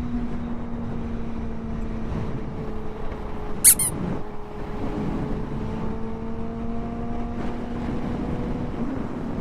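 Suzuki GSX-R inline-four engine holding a steady pitch at highway speed, with wind rushing over the helmet microphone. About a third of the way in comes one brief, loud, high squeak.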